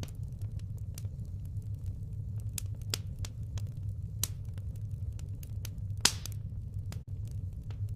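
Firewood fire burning with irregular crackles and sharp pops over a steady low rumble, a few louder pops standing out.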